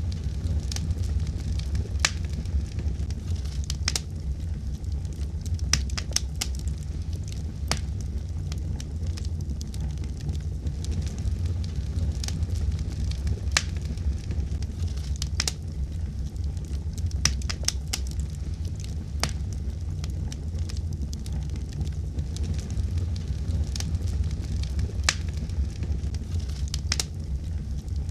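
Fireplace fire crackling: irregular sharp pops and snaps, several a second at times, over a steady low rumble of the flames.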